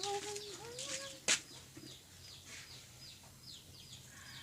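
A chicken clucking, with a few bending, warbling calls in the first second, over a steady run of short, high, falling chirps from small birds. A single sharp click about a second and a half in is the loudest sound.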